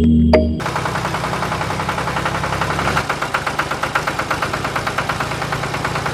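Small engine idling with rapid, even pulses, after background music stops about half a second in.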